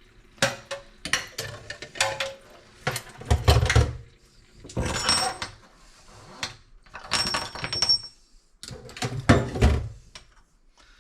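Metal faucet parts and hand tools clinking and knocking as they are handled, a string of separate clanks and taps, some ringing briefly.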